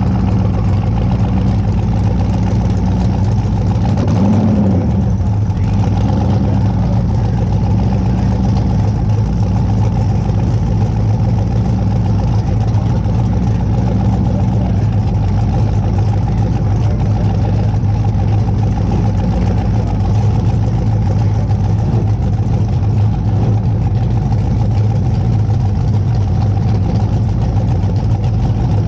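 Car engine idling steadily, a deep even drone that hardly changes.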